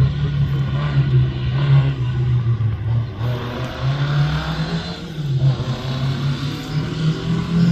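Rally car engine running hard, its revs rising and falling several times.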